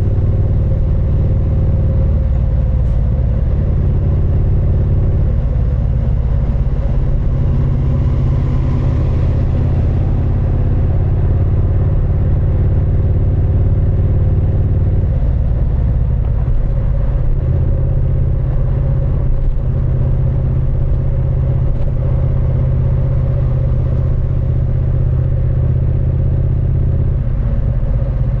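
Triumph Speed Twin 900's 900 cc parallel-twin engine and exhaust running at a low, steady pitch. Its note steps slightly up or down a few times.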